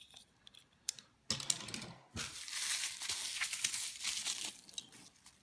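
Crinkling and rustling of plastic being handled, with scattered light clicks, as small die-cast toy cars are picked over. The crinkling starts about a second in and dies down near the end.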